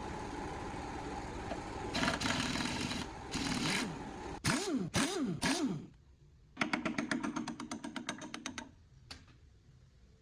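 Power tools working on metal. A motor runs steadily, then gets louder and uneven. It revs up and down three times in quick succession, then gives a fast, even rattle of strikes for about two seconds, like an impact wrench or air tool hammering.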